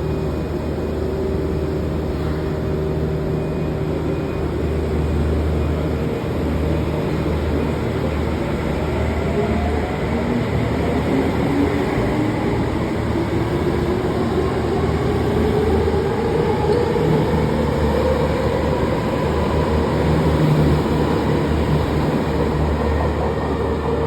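Tokyo Metro 05 series electric train accelerating, its traction motor whine rising steadily in pitch over a constant running rumble.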